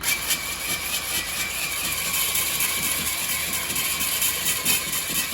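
Power tool spinning a cylinder hone in the bores of a Honda K20A engine block, cross-hatching the cylinder walls: a steady motor whine over a loud grinding hiss.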